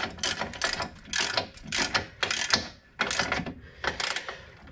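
Hand ratchet clicking in quick bursts of short strokes, running a bolt down snug on an air-cooled Porsche 911's rear trailing arm.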